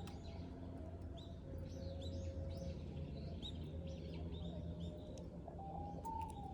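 Small birds chirping rapidly and repeatedly, over a low steady hum.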